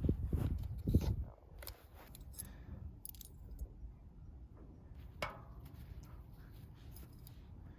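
Handling noise: a dull, louder bump and rustle in the first second, then scattered light clicks and clinks of hard objects being moved, with one sharper click about five seconds in.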